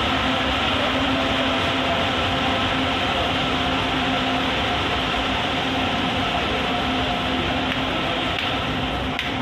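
Train at a station platform: a steady hum with a few held tones over a wash of noise, easing off slightly near the end.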